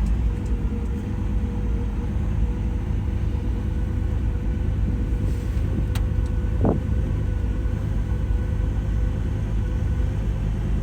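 1958 Chevrolet Impala's engine idling steadily just after a cold start.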